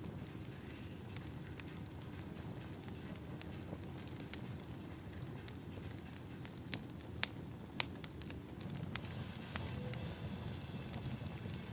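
Wood fire burning in a fireplace: a steady low rumble with irregular sharp crackles and pops, a few louder pops in the middle.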